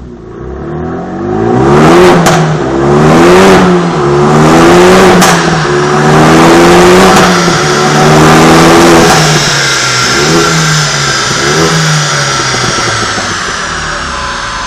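Renault Mégane RS 3's turbocharged four-cylinder engine through a G-Tech Track aftermarket exhaust, revved up and down several times with two sharp cracks as the revs drop. Near the end it settles to a lower steady idle with a couple of short blips.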